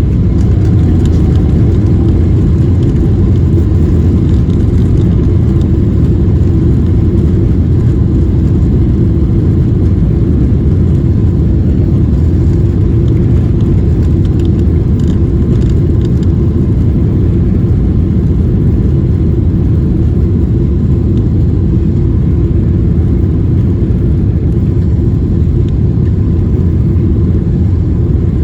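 Jet airliner taking off, heard from inside the cabin: a loud, steady rumble of the engines at takeoff power, with a faint rising whine near the start.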